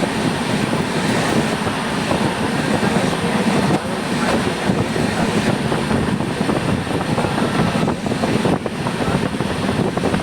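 Train running on the rails: a steady rumble and rattle of the wheels and coach, with a few brief sharp knocks.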